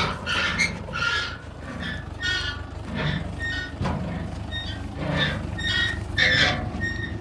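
Heavy diesel machine engine running steadily, with many short high-pitched squeaks over it about twice a second.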